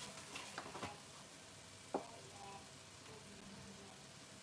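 Faint sizzling of a spiced curry frying in a pot on a gas burner, with one light knock about two seconds in.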